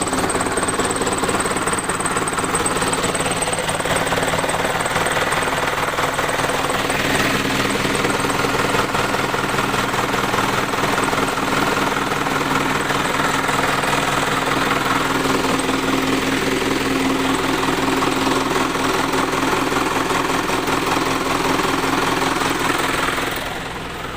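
Engine running steadily at raised revs with a rattly note while engine-flush additive circulates in the old oil before an oil change; the revs drop back near the end.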